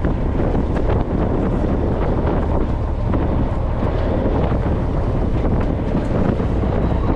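Wind buffeting the microphone aboard a fishing boat at sea, over a steady low rumble and the wash of water.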